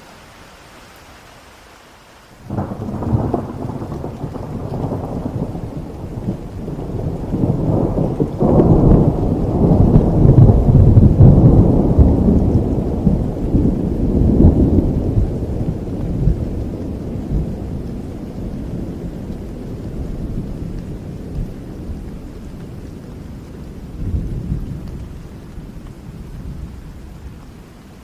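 Thunderstorm: steady rain with a long peal of thunder that cracks in suddenly a couple of seconds in, rumbles louder to a peak midway, then slowly rolls away with a last swell near the end, leaving the rain.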